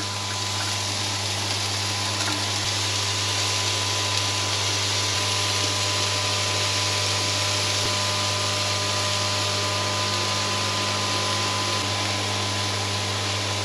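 Diced sweet potatoes frying in a hot cast-iron skillet, a steady sizzle, over a steady low motor-like hum.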